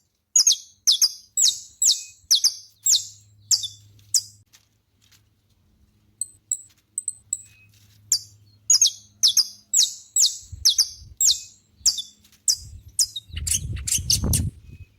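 Saffron finch singing: a run of short, sharp high chirps at about two a second, a pause of about two seconds, then a second longer run. A brief low rumble near the end.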